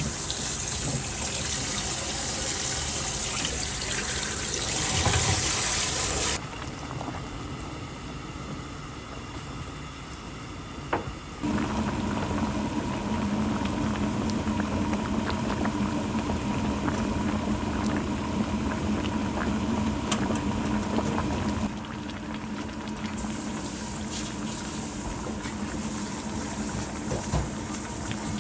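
Kitchen sounds: water running for about six seconds, then quieter handling noise. From about eleven seconds a steady hum with a low tone runs for about ten seconds. Running water returns near the end.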